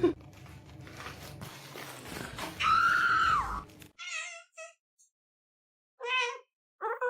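A cat meowing: one longer meow about two and a half seconds in, then several short meows after a break.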